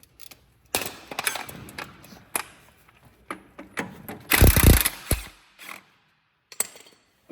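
Hand tools on a truck's lower shock absorber bolt: a string of metal clicks and clanks, with a louder clatter about four and a half seconds in.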